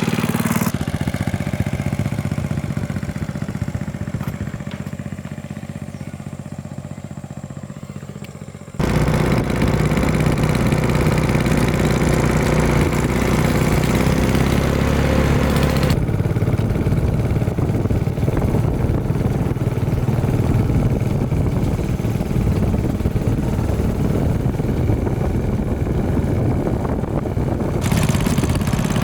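Restored 1989 Hyosung motorcycle's engine running, across several abruptly cut shots. It fades steadily over the first several seconds, then comes back loud and steady after a cut about nine seconds in.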